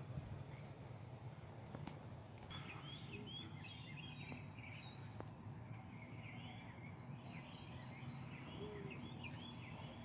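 Faint steady outdoor background hum, with small birds chirping in quick short calls from about two and a half seconds in.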